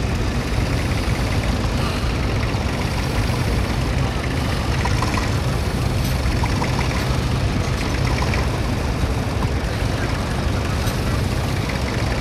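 Vintage tractor engine running steadily under load, a continuous low rumble.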